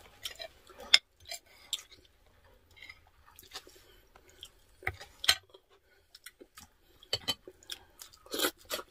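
Close-up eating: chewing and mouth sounds, with spoons and forks clicking against plates in short, irregular ticks, busiest near the end.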